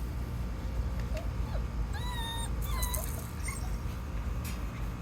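Australian Shepherd puppies whimpering: a few short, faint yips, then a high whine held for about half a second around two seconds in, followed by a shorter whine that falls in pitch.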